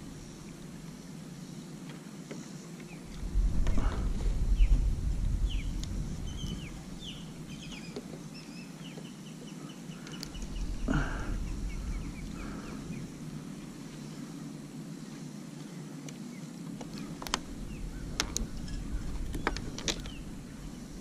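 A bird tangled in fishing line, held in hand, giving a run of short, falling squawks, then a stronger call about halfway through. Two bursts of low rumble are the loudest sounds, and several sharp clicks come near the end.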